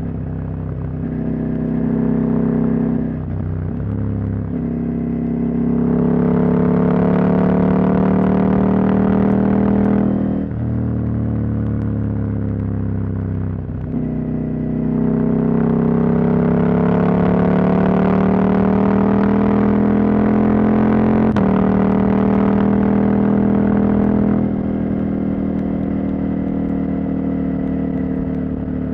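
Husqvarna Norden 901's parallel-twin engine with its catalytic converter removed, under way on the road: the revs climb and drop back several times with gear changes, and the engine eases off to a lower, quieter run near the end.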